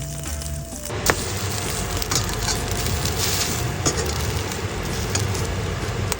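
Stuffed French toast sizzling in a hot frying pan, the sizzle starting suddenly with a click about a second in, over background music.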